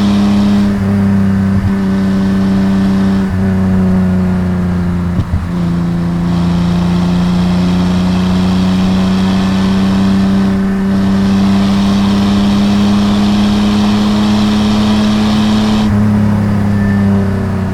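Datsun 240Z's 2.8-litre L28 inline-six running under load while driving, its exhaust holding a loud, steady note at fairly constant revs. There is a brief dip about five seconds in.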